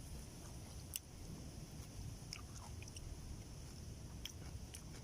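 Faint chewing and biting: a person eating, with scattered small clicks over a low rumble.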